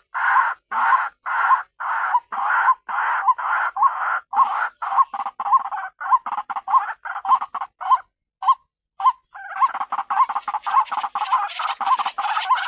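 White-breasted waterhen (ruak-ruak) calling: harsh repeated croaking notes, about two a second and quickening. After a short break about two-thirds through, the calls resume in a faster, denser run.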